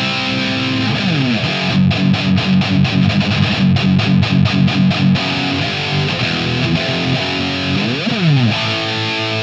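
Heavily distorted electric guitar playing a thrash rhythm riff: an Ibanez RG550 through the Tone Master Pro's British 800 (Marshall JCM800) amp model, boosted by a Greenbox (Tube Screamer) overdrive with no EQ yet. Rapid palm-muted chugging fills the middle, with a slide down the neck about a second in and a slide up and back down near the end.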